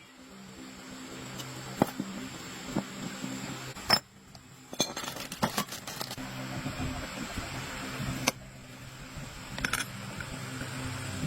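Light metallic clicks and clinks of tools and small metal parts being handled, over a steady low hum.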